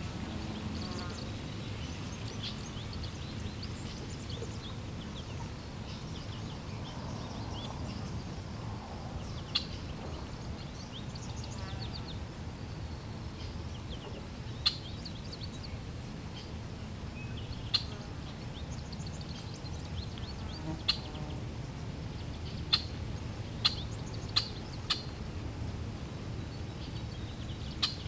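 Water flowing steadily with a low rush, under birds chirping. There are many short high chirps, and from about ten seconds in, sharp loud chirps stand out every second or few.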